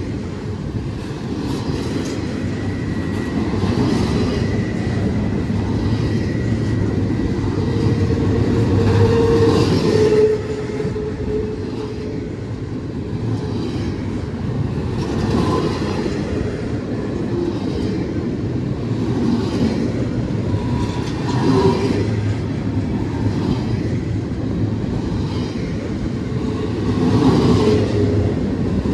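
Intermodal freight cars rolling past on jointed rail, a steady rumble and clatter of wheels with brief wheel squeals a few times.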